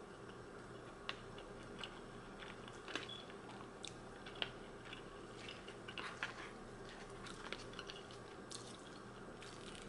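Faint close-up eating sounds: chewing and smacking on a mouthful of angel hair pasta in sauce, with scattered small wet clicks and the tick and scrape of a plastic fork in a paper bowl, over a steady low hum.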